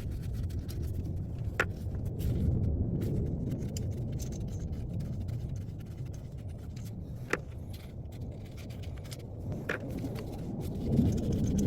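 A few light metallic clicks from tools and the 12 mm exhaust header nuts being worked off, three of them spread across the stretch, over a steady low rumble.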